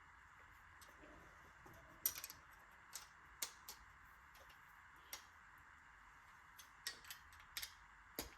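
Near silence with a faint steady hiss, broken by about eight small, irregularly spaced clicks and light taps of hand tools and metal parts being handled; the loudest comes about two seconds in.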